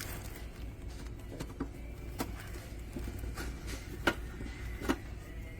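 Scattered light knocks and clicks from unboxed espresso-machine parts and packaging being handled, two of them louder near the end, over a low steady hum.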